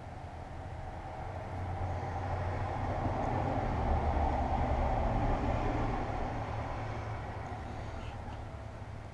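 A road vehicle driving past: its rumble and tyre noise build up slowly, are loudest a little before the middle, and fade away again.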